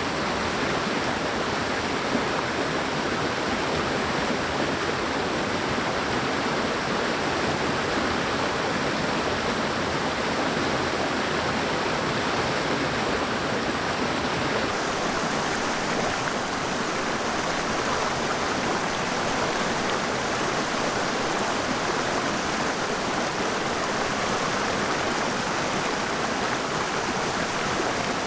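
Mountain stream rushing steadily, an even, continuous wash of flowing water.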